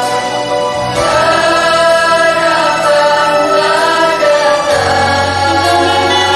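A mixed choir singing an anthem in harmony, with a held note at the start and a moving melodic line after about a second. A steady low accompaniment drops out briefly about a second in and comes back near the end.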